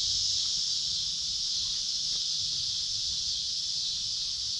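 Steady, high-pitched chorus of insects such as crickets, holding an even level throughout, with a faint low rumble beneath.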